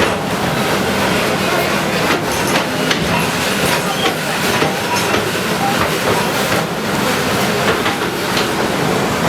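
Heavy demolition machinery running with a steady rumble and metallic clatter, over the mixed voices of a crowd.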